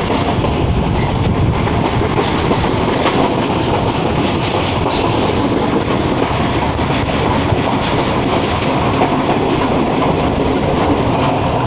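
Passenger train running at speed, heard from the carriage's open window or doorway: a steady rumble and rattle with faint wheel clicks over the rail joints.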